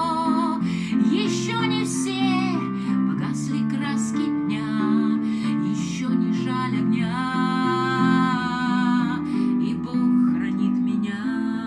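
Acoustic guitar music with held, ringing notes over a moving bass line: an instrumental passage with no words sung.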